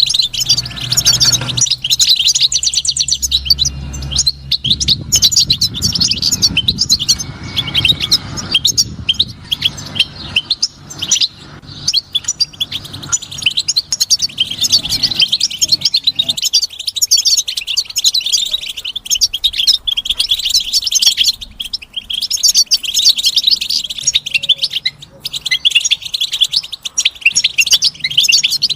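European goldfinch singing: a continuous fast, twittering song of rapid high chirps and trills. A low rumble lies under the song for the first half and then fades out.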